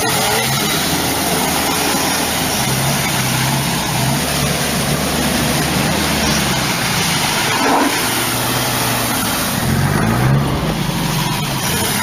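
Off-road vehicle's engine running under load, its pitch rising and falling again and again as the throttle is worked, over a steady noise.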